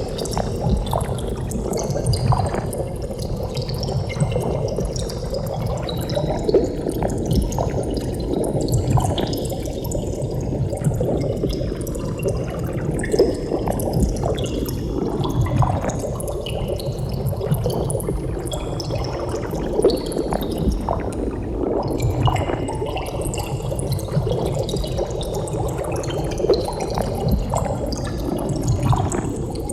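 Water bubbling: a steady, dense stream of bubbles gurgling and popping, heavy in the low end, with many small pops throughout.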